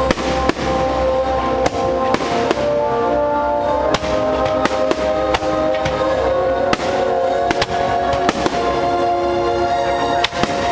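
Fireworks shells bursting with sharp bangs, about a dozen of them, over loud music from the show's soundtrack.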